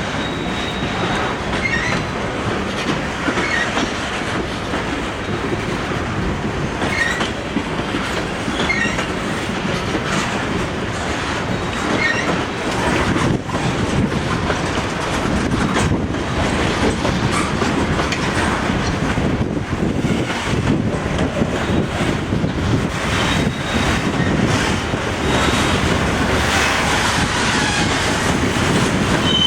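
Train cars rolling past on the CSX main line: a steady rumble of steel wheels on rail, with faint regular clicks and a few brief high-pitched wheel squeals.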